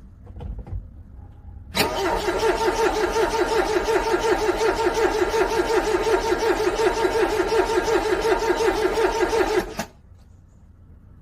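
A car's starter cranking a cold engine for about eight seconds with an even rhythmic pulse. It stops suddenly without the engine catching: a cold start that fails.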